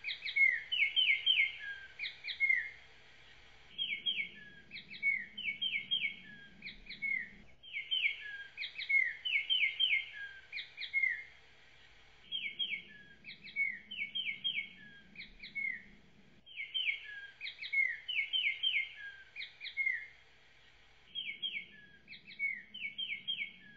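Small birds chirping and twittering in quick clusters of short notes and downward-sliding calls, the same burst of song repeating about every four seconds.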